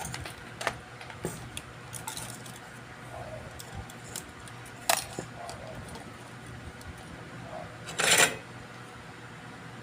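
Small metal tools and parts clicking and clinking as they are handled on a workbench, over a steady low hum, with one louder clatter lasting about half a second near the end.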